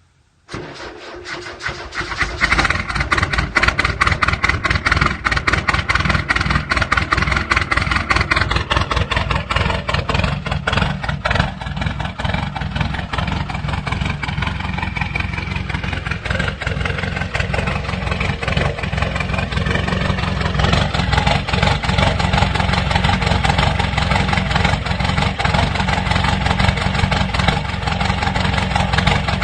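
Diesel car engine cold-started in deep frost: cranked and catching about two seconds in, then running with a steady, rapid clatter.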